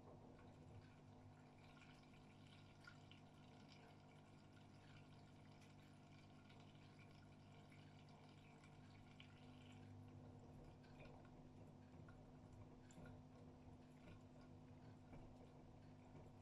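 Faint water dripping and trickling inside an AEG Öko-Lavamat 76910 front-loading washing machine during its wash cycle, over a steady low hum.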